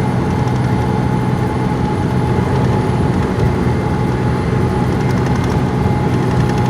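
Steady engine drone and road noise heard inside a delivery truck's cab at highway speed, with a thin steady whine above it.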